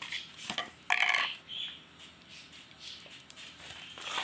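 Slime being handled and pressed back into its container: a few short sounds, the loudest about a second in.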